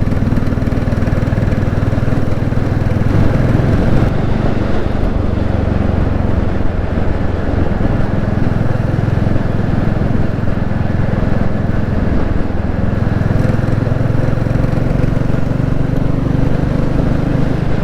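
Royal Enfield Classic 350's single-cylinder engine running steadily under way, at a fairly constant speed with no big revs up or down.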